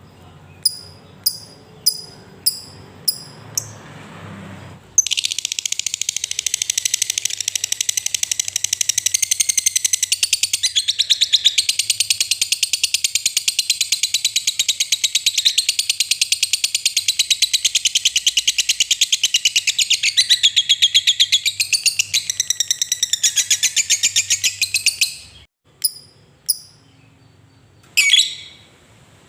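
Lovebird giving its long 'ngekek' song: a string of single sharp chirps, then about five seconds in a continuous, very rapid, high-pitched chattering trill that runs for about twenty seconds before breaking off into a few more single chirps.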